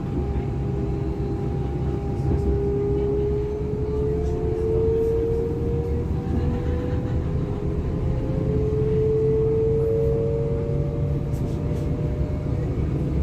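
Class 425 electric multiple unit heard from inside while under way: a whine from the traction drive rises in pitch twice as the train gathers speed, over a steady low rumble of wheels on the track.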